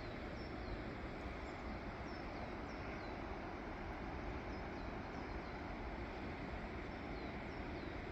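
A small bird repeatedly gives short, high, falling chirps, about one or two a second, over a steady rushing background noise.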